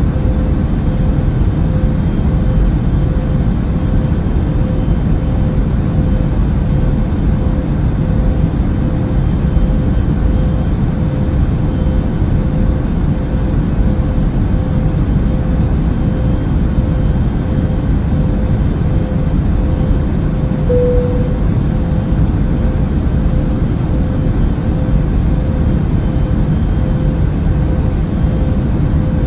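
Airbus A380 cabin noise in cruise: a steady, unbroken low rumble of engine and airflow, with a constant hum near the middle of the range. About two-thirds of the way through, the hum briefly gets louder.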